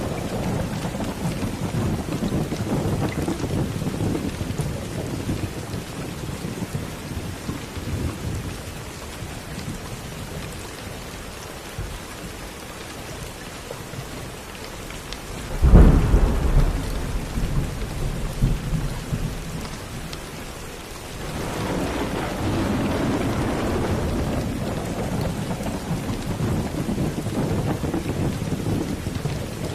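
Steady rain with thunder. A low rumble dies away over the first half, then a sharp, loud thunderclap comes about halfway through and rolls off over a few seconds, and another long rumble builds in the last third.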